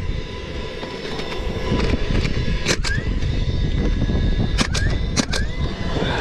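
Sharp knocks from roofing work, one about three seconds in and a quick cluster of four a little before the end, over a steady low rumble.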